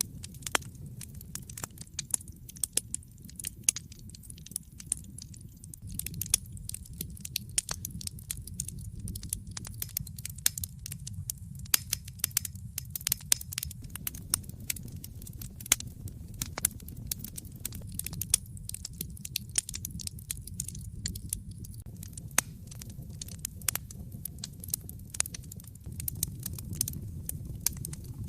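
Wood fire crackling in a fireplace: irregular sharp pops and snaps, many a second, over a low steady rumble of the flames.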